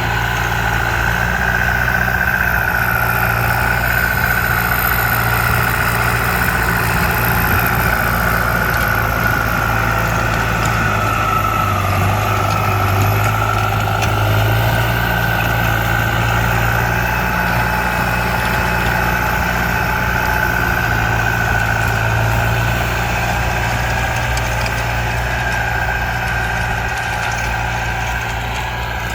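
ZT 155 tractor engine running steadily at a low, even speed, with a high whine over the low drone that drifts slightly in pitch.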